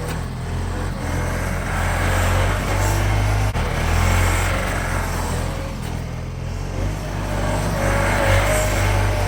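John Deere loader tractor's engine running as the tractor drives back and forth over back-filled post holes, packing the dirt down. The engine's level swells and eases a few times.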